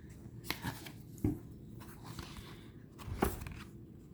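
Tarot cards being handled: soft paper rustling with three or four light taps or clicks as cards are moved and set down.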